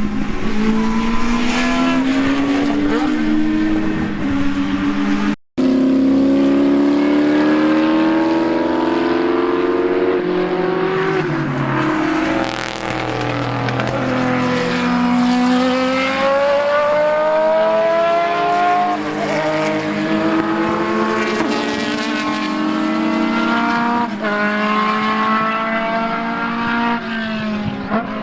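Racing car engines at high revs: several cars pass one after another, each engine note climbing steeply through the gears and dropping back at the shifts. The sound cuts out briefly about five seconds in.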